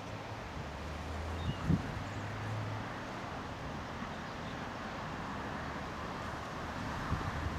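Diesel locomotive engine running steadily as a low hum, with wind buffeting the microphone and a brief thump about two seconds in.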